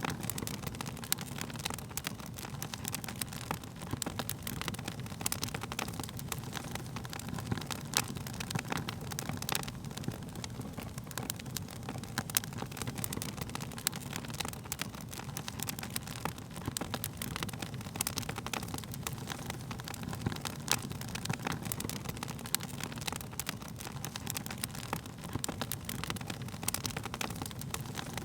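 Wood fire burning: a steady low rush of flame with frequent sharp crackles and pops from the wood.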